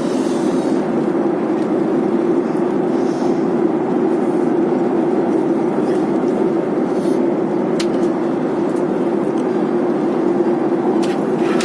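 Steady cabin noise inside a passenger airplane: the even drone of engines and airflow, with a few faint ticks in the second half.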